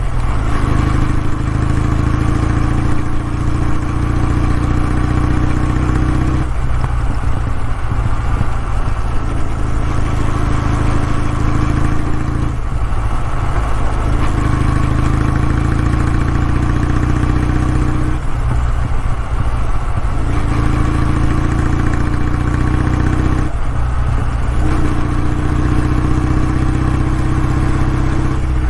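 Exhaust of a Kawasaki W650's air-cooled parallel-twin engine running steadily, its note dipping briefly about every five to six seconds.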